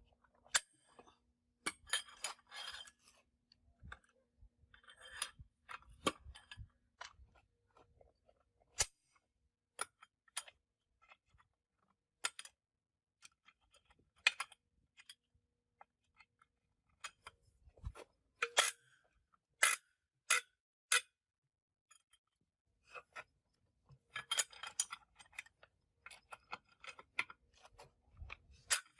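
Irregular metallic clicks, clinks and light scraping of hand tools and parts being handled, with short bursts of rattling about two, five and twenty-five seconds in, and a few sharp strikes around eighteen to twenty-one seconds.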